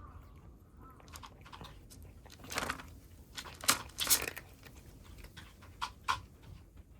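Kittens eating cat food, with about five short, sharp, loud chewing noises in the middle and near the end.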